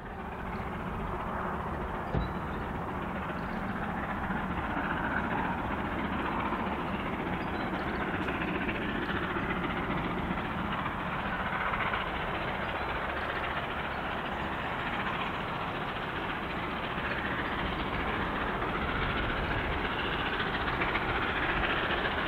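A train running along the track, a steady, even sound throughout, with a single sharp click about two seconds in.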